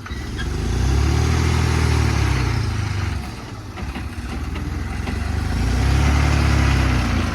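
JCB 3DX backhoe loader's diesel engine revving up twice, each time held for about two seconds and then dropping back toward idle.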